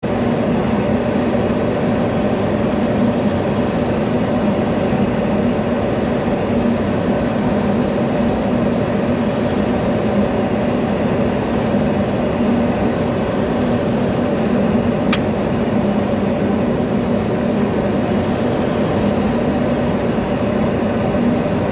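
Steady Boeing 737 flight-deck noise on final approach, with a loud, even rush and a low steady hum. A single short click comes about fifteen seconds in.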